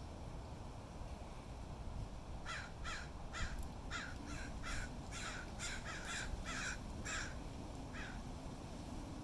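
A bird giving a series of about a dozen short calls, roughly two a second, the last after a short pause, over a steady low wind rumble.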